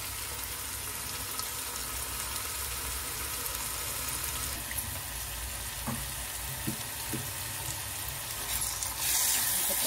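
Onion-tomato masala sizzling steadily in oil in a non-stick frying pan, with a few light knocks partway through. About nine seconds in the sizzle turns louder as the paste is stirred.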